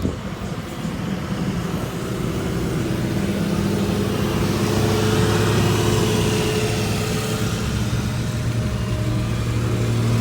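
Heavy diesel engine of logging equipment running under load, getting louder over the first few seconds and then holding steady.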